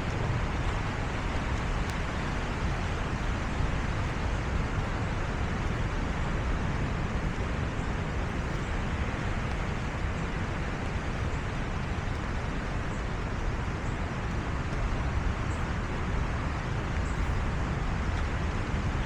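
Steady rushing noise of wind on the microphone, unbroken and even, with no distinct events standing out.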